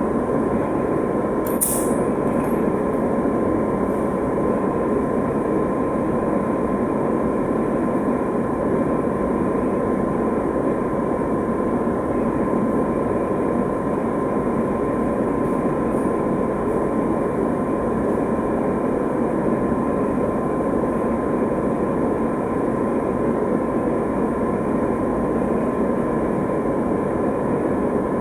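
Steady, continuous machine noise with a steady hum running through it, and a brief high click about two seconds in.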